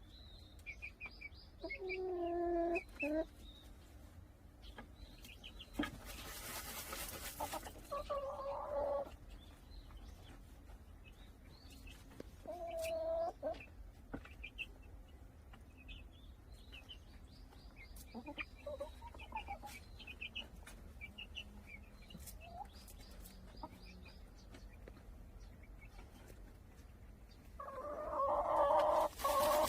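Chickens clucking in a dust bath: about five short runs of low, drawn-out clucks, with faint high chirps between them. Twice, once about seven seconds in and again near the end, comes a brief rush of rustling noise from dirt being scattered or feathers shaken.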